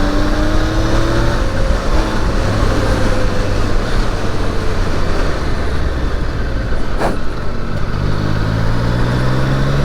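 Triumph Daytona 660's three-cylinder engine pulling under acceleration, its note rising as the bike gathers speed, then a stretch dominated by rushing noise with a short sharp knock about seven seconds in. Near the end the engine note climbs again as the rider accelerates.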